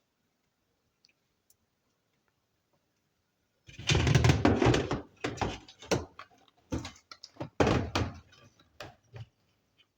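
Quiet, then from about four seconds in a run of clattering thumps and knocks, loudest at first, then several separate knocks, as of hard objects being handled and set down.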